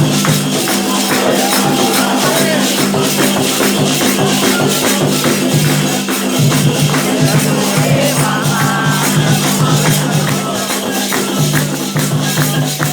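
Candomblé ceremonial drumming for Xangô: atabaque hand drums led by the rum, with rattling percussion, playing a fast, steady rhythm.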